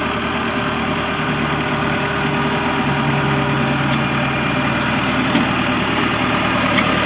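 Case 585 tractor's 3.4-litre four-cylinder diesel engine idling steadily, with a low steady hum running from about one to five seconds in.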